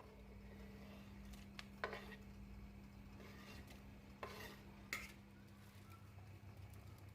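A few light clinks and knocks of kitchenware, about four in all, two near the second mark and two a little past the middle, over a steady low hum.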